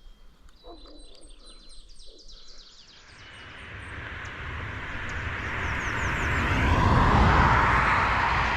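Small songbirds singing quick, high, repeated notes, then a vehicle passing on the highway. The vehicle builds from about three seconds in, is loudest around seven seconds, and starts to fade near the end, drowning out the birds.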